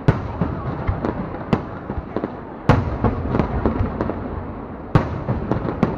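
Aerial fireworks going off: a dense run of booming bursts and sharp cracks over a steady rumble, with the loudest bangs a little under halfway through and again near the end.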